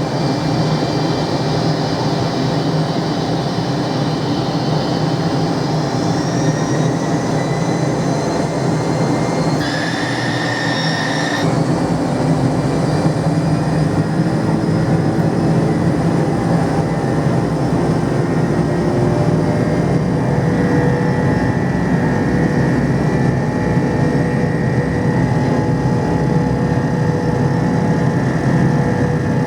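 Three-engined McDonnell Douglas DC-10 jet airliner during takeoff: a loud, steady roar of the jet engines and rumble, with high engine whines that rise about six seconds in. A separate steady tone sounds for about two seconds near ten seconds in.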